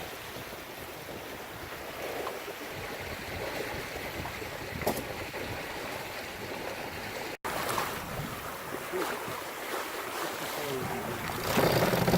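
Steady rush of wind and water along a sailboat's hull while it runs downwind under spinnaker, with wind buffeting the microphone. The sound cuts out briefly about seven seconds in and grows louder near the end.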